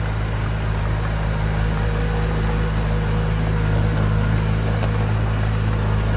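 Heavy diesel engine running steadily at a constant low speed, with no change in pitch or load.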